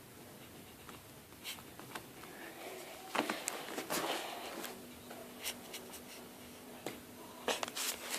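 Toy slime being handled, with soft squishes and plops and a scattering of light clicks and taps.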